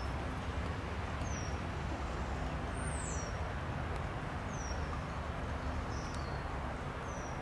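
A steady low rumble with a bird repeating short, high, falling whistles every second or two.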